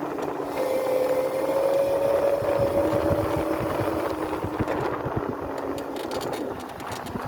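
Electric motor of a Razor dirt bike whining as it runs under way, one whine climbing slowly in pitch before fading about halfway through, over rough rumbling from the ride. Scattered sharp ticks follow near the end.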